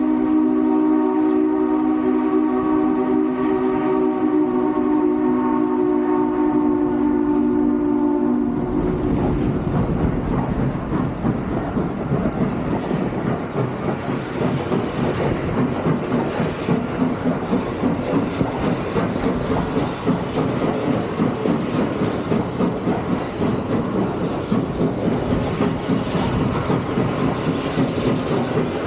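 Steam locomotive's chime whistle blowing one long blast of several notes at once, cutting off about eight seconds in. Then the train keeps running with a loud rumble and a fast, even pulsing rhythm.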